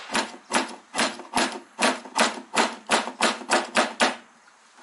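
Hammer driving nails to fix a metal entrance reducer onto a beehive: a dozen or so sharp strikes, about two to three a second, coming a little faster toward the end and stopping about four seconds in.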